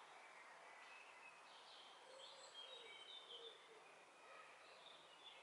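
Near silence: faint background hiss with a few distant birds chirping, mostly in the middle.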